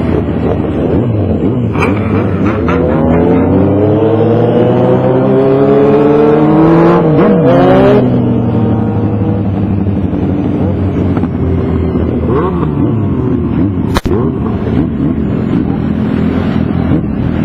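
Motorcycle engine accelerating hard, its pitch climbing steadily for several seconds before dropping off abruptly about eight seconds in, then running on more evenly. A single sharp click about fourteen seconds in.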